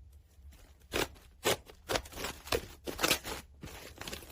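Slime being handled, with a series of short, crisp clicking and crackling squishes, roughly two a second, starting about a second in.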